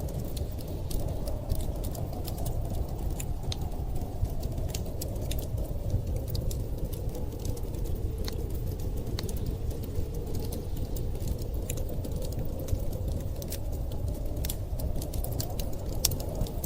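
A wood fire crackling, with many sharp irregular pops and snaps, over a steady low rumble of storm wind whose hollow howl sinks a little in pitch and then rises again near the end.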